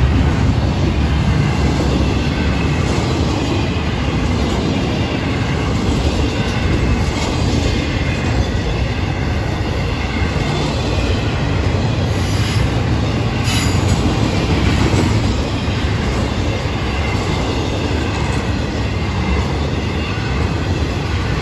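Freight train cars rolling past close by: the steady rumble and clatter of steel wheels on the rails under loaded intermodal well cars, with a brief sharp clank about thirteen seconds in.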